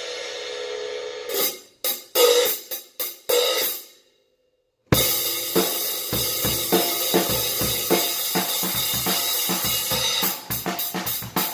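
Paiste 16" 2002 Sound Edge hi-hats, a prototype pair: a ringing open wash, then about six separate strikes left to ring out. After a second of silence, they are played in a steady drum-kit groove with bass drum and snare.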